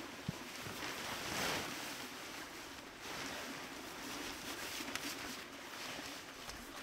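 Steady wash of rain, swelling briefly about a second and a half in, with a single sharp click just after the start.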